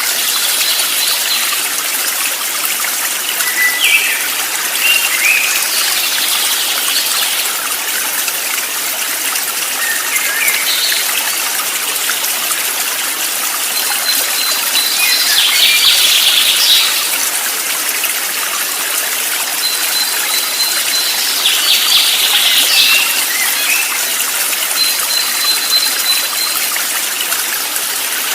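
Steady rush of running water, with birds calling over it every few seconds: short chirps and a few longer, buzzy trilled phrases, some led in by a thin high held note.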